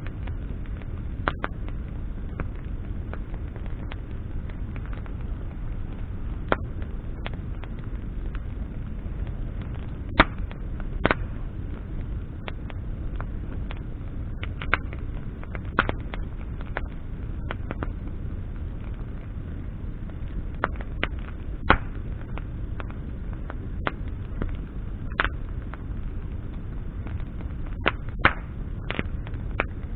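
Wood campfire burning, with sharp crackles and pops at irregular intervals, a handful of them louder, over a steady low rumble.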